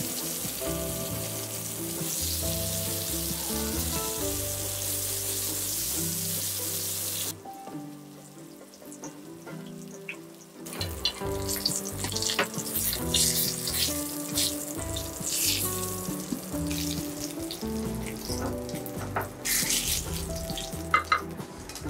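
Halved eggplants sizzling as they fry in oil in a stainless steel pan. The sizzle dies down for a few seconds about a third of the way in, then comes back with sharp spatula clicks against the pan as the pieces are turned and lifted out. Background music plays throughout.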